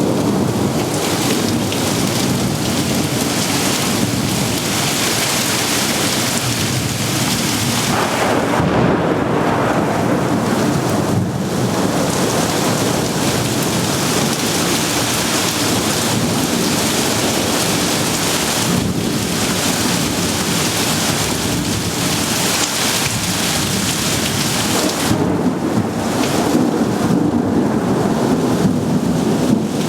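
Heavy rain pouring down in a thunderstorm, with thunder rumbling under it; the downpour is loud and steady.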